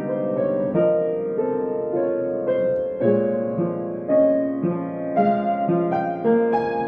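Solo piano playing a slow, gentle piece: a melody over broken-chord accompaniment, with notes sustained and overlapping.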